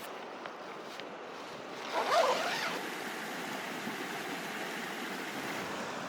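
Steady rushing of river water, with one short, louder sound about two seconds in.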